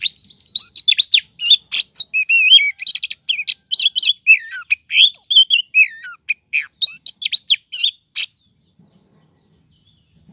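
Oriental magpie-robin (kacer) calling: a fast, varied run of sweeping chirps and whistles that breaks off about eight seconds in. It is a female's call of the kind used as a lure to draw in males.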